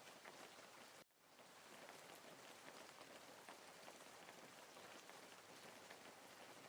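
Steady, quiet rain falling, with individual drops heard in the even hiss. It cuts out abruptly about a second in and fades back up within half a second.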